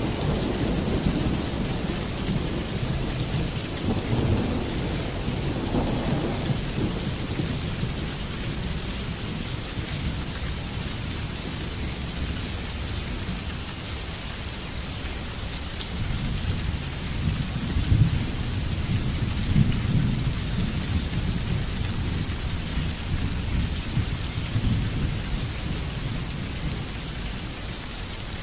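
Heavy rain falling steadily, with low rolls of thunder rumbling through the first few seconds and again past the middle.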